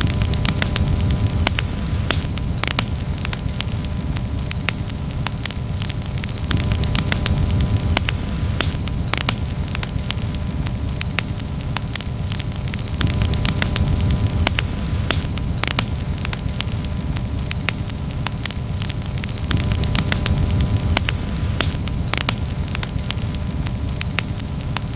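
Campfire crackling, with frequent irregular sharp pops and snaps over a steady low rumble of the burning fire.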